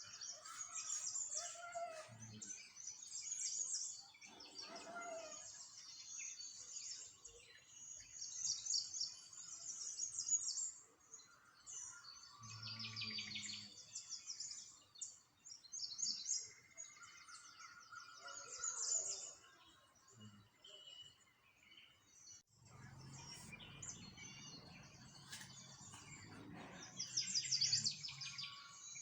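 Small songbirds chirping and twittering, many rapid high chirps and trills overlapping throughout. A faint low rumble sits underneath for a few seconds near the end.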